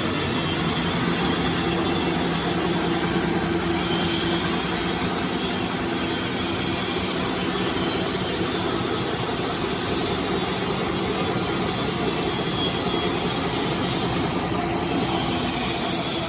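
Automatic neck paper roll making and rewinding machine running steadily: a continuous mechanical whir with a steady low hum.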